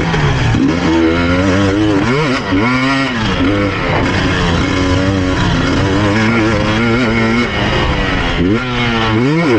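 KTM EXC 250 TPI two-stroke enduro engine on the move, its pitch holding for stretches and then sweeping sharply up and down twice, as the throttle is opened and shut, heard from a camera on the rider's helmet chin bar.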